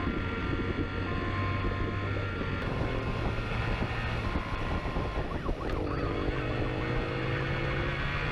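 Police siren sounding two alternating tones over a running motorcycle engine, whose pitch climbs from about five seconds in.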